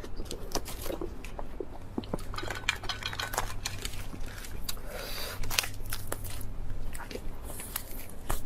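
Close-miked mukbang eating sounds: chewing and biting, with many short wet clicks and crunches, over a steady low hum.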